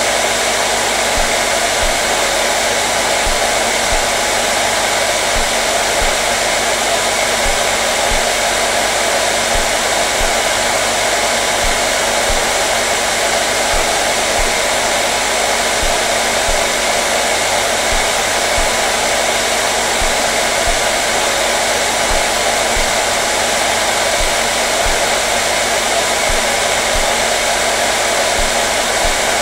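Hair dryer running steadily: a constant, even blowing hiss with a faint motor hum, unchanging throughout.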